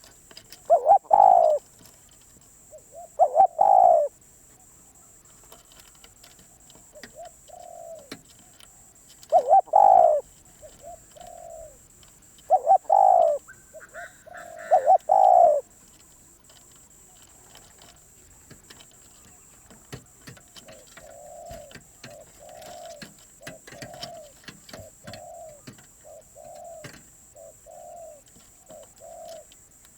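Spotted dove cooing: loud, low coo phrases in bursts through the first half, then a run of fainter coos about once a second near the end.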